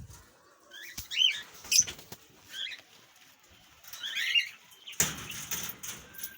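Small caged parrots, such as lovebirds and cockatiels, chirping in short separate calls, with a sharp click about a second in and a brief rustle or flutter about five seconds in.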